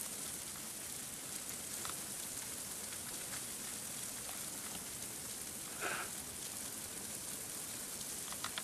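Steady hiss of freezing rain falling, with scattered faint ticks and a brief faint sound about six seconds in.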